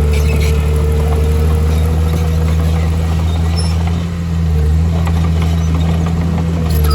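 Heavy diesel engine of earthmoving machinery running steadily with a deep hum, dipping briefly about four seconds in.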